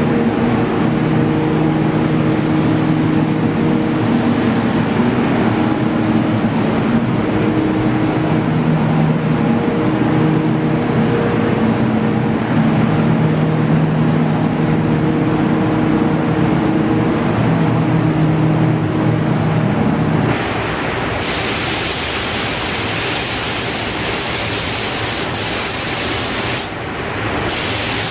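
Paint being sprayed onto an engine, a steady hiss, under a hum that shifts in pitch for most of the first twenty seconds. About twenty seconds in the hum stops and a brighter, higher hiss takes over, breaking off briefly near the end.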